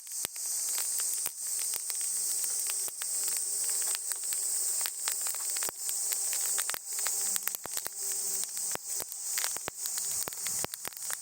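Wood campfire crackling with irregular sharp pops, over a steady high-pitched drone of cicadas.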